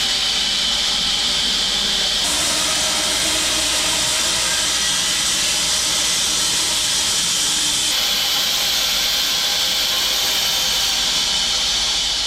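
Wide bandsaw mill running with its blade cutting through an elm log: a steady, hissing noise over a machine hum.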